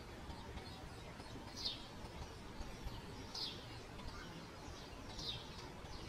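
Bird chirping: three clear, short, high chirps about two seconds apart, each falling in pitch, with fainter chirps between them over a steady low background hiss.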